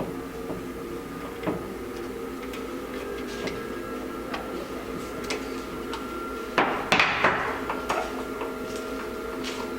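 Light clicks and small knocks of tools and metal carburetor parts being handled during disassembly, over a steady background hum. About six and a half seconds in comes a louder, brief rattling scrape.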